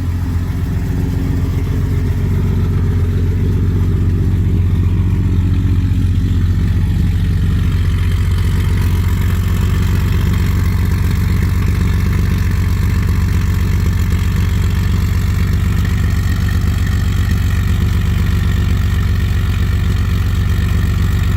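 Ford 300 cubic-inch inline-six in a 1974 F100 idling steadily while still cold after a cold start, the camshaft and valvetrain plainly audible because the engine has not warmed up.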